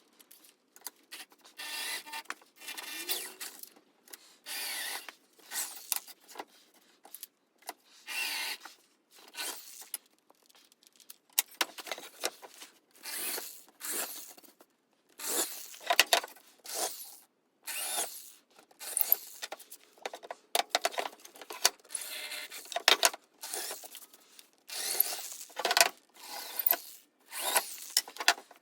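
Repeated rasping strokes of a hand tool worked back and forth on a workpiece, each stroke under a second long with short pauses between, some stronger than others.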